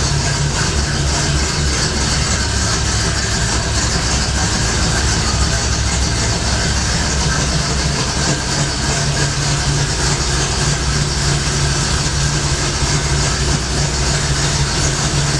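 Car engine idling steadily, an even low engine note with no revving.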